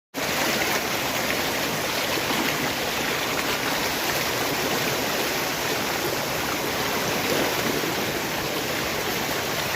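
Waterfall in full flow: a steady, loud rush of falling water.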